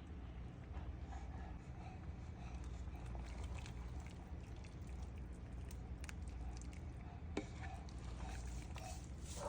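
A pot of chicken soup with cabbage and potatoes on the stove, its liquid bubbling and sloshing, with scattered light ticks and one sharp click about seven seconds in.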